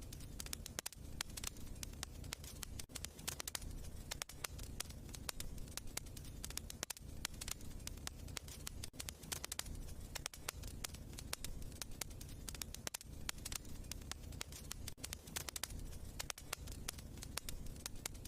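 Burning logs in a fireplace crackling, with many irregular sharp snaps and pops over a steady low rush of the fire.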